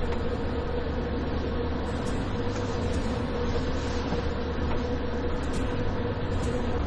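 Steady hum inside a stationary Amtrak sleeper car: a low drone with a constant mid-pitched whine over an even rush of air, the noise of the car's ventilation and electrical systems while the train sits stopped.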